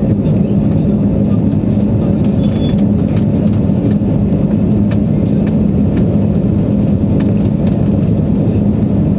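Steady drone of an airliner's engines and airflow heard inside the passenger cabin, with a constant low hum.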